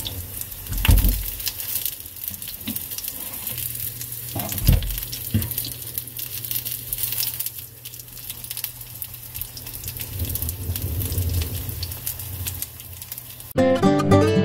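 Salmon patties sizzling as they fry in oil in a nonstick frying pan, with two thumps as the patties are turned with a spatula, about one and five seconds in. Acoustic guitar music comes in near the end.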